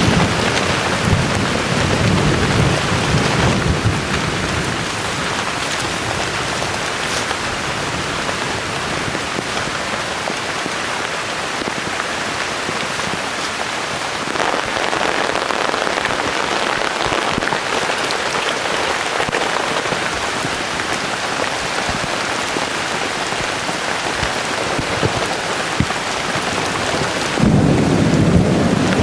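Heavy rain pouring steadily, with low rumbling thunder in the first few seconds and again starting suddenly near the end.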